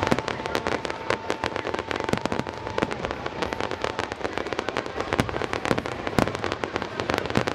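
Aerial fireworks crackling: a dense stream of sharp small pops, many a second, with an occasional louder crack among them.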